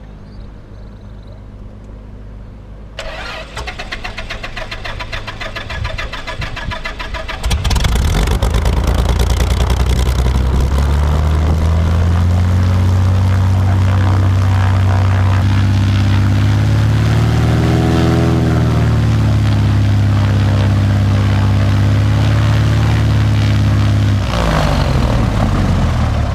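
Piper Lance's six-cylinder piston aircraft engine being started: the starter cranks for about four seconds before the engine catches. It then runs loud and fast with a brief rise and fall in revs, the high idle (about 2,000 rpm) of a throttle that won't come back to idle. The revs sink near the end.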